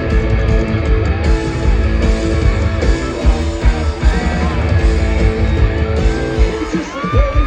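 Live rock band playing: electric guitars over bass and a steady, driving drum beat.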